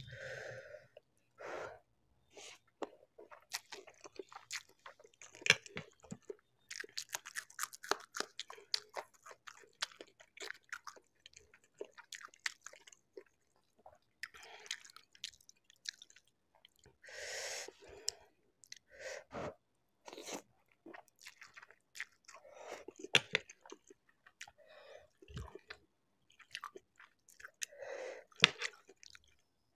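Close-miked chewing of spicy Maggi instant noodles with sweetcorn: wet mouth sounds and crunching in irregular bursts, with many small clicks.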